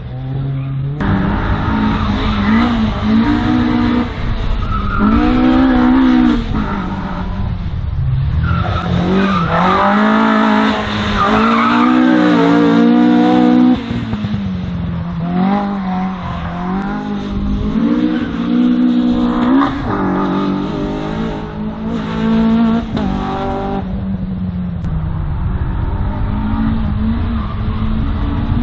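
Race car engine revving hard, climbing in pitch and dropping back again and again as the driver accelerates and lifts between slalom gates, with tyres squealing at times.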